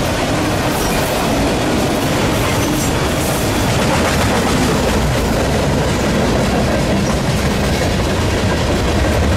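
Union Pacific freight train rolling past close by: a steady, loud rush of wheels on rail.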